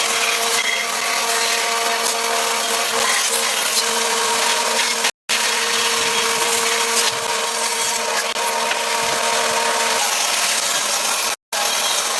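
Electric power tool running steadily as it works wood, a constant motor whine over a rough noise. It cuts out for an instant about five seconds in, then carries on.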